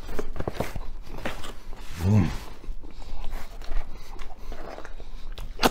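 A man chewing a mouthful of pizza close to the microphone: a run of wet mouth clicks and smacks, with a short hummed sound about two seconds in and a sharp click just before the end.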